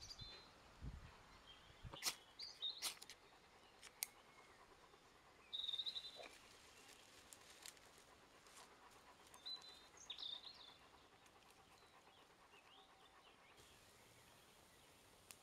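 Quiet outdoor ambience with a few short, high bird chirps and scattered light clicks.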